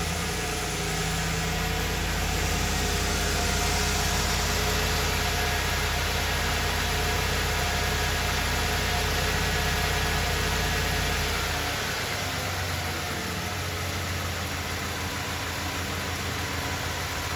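1994 Ford F-150's engine idling through its quiet stock exhaust on a cold start. About two-thirds of the way through, the fast idle drops to a lower idle on its own as the engine warms.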